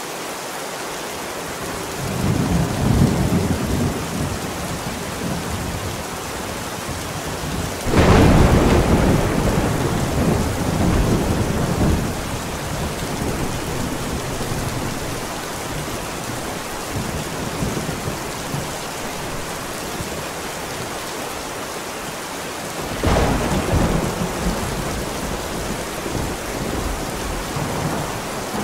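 Steady heavy rain with thunder: a low rumble about two seconds in, a loud sudden thunderclap about eight seconds in that rumbles on for some four seconds, and a shorter clap with a rumble near the end.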